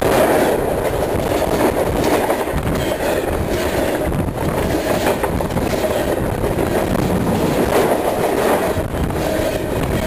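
CN Rail train cars rolling directly over a microphone lying between the rails: a steady, loud rumble of wheels on rail with a continual irregular clatter of knocks.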